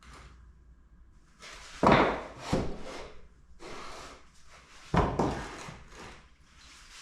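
Three sharp knocks with scraping between them, as of metal engine parts being handled and set down during work on a diesel engine.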